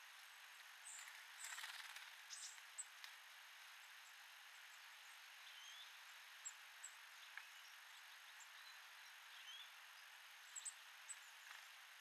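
Small birds at a feeder giving faint, short high chirps, scattered irregularly over a steady hiss, with a brief rustle about a second and a half in.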